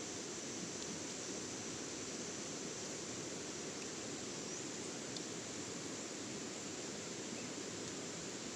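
Steady outdoor ambient noise, an even hiss with a few faint clicks.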